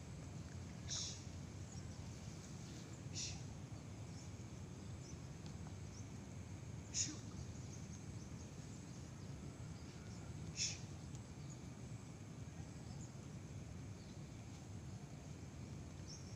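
Outdoor ambience by a pond: a steady low rumble with four short, high chirps from a bird, spaced a few seconds apart.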